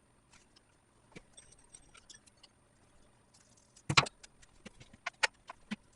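Scattered light metallic clinks and taps of tools and hardware on a motorcycle being stripped, with a louder knock about four seconds in and several sharp clicks after it.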